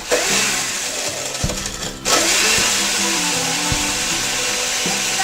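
Countertop blender running, blending juice and ice for a mixed drink; about two seconds in it stops for a moment and starts again.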